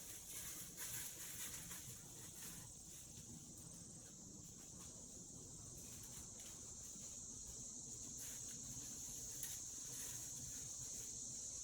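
Faint insect chorus: a steady high-pitched trill, with a few soft taps in the first couple of seconds.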